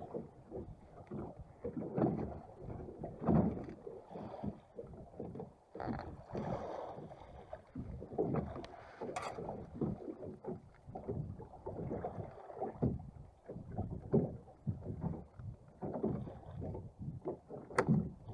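Water sloshing and slapping against the hull of a small boat afloat, in uneven surges, with two sharp knocks.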